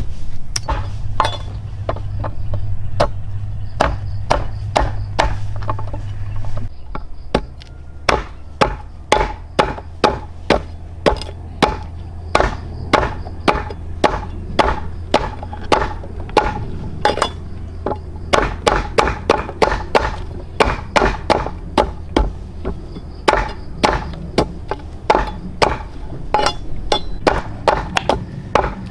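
Rapid chopping strikes on plant material, irregular at first, then a steady rhythm of about two a second, over a continuous low hum.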